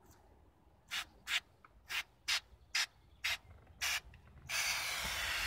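Aerosol silicone spray lubricant hissing out in about seven short spurts, then one longer spray near the end, applied to the door window seals to try to cure a noise the power window makes at the top of its travel.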